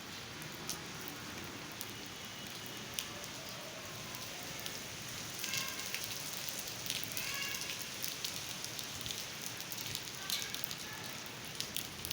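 Steady rain falling, an even hiss with scattered louder drops landing close by.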